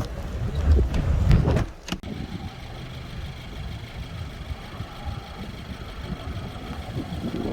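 Low rumble of wind on the microphone for about the first two seconds, ending in a sharp click. After that, a steadier, quieter hum of a car running.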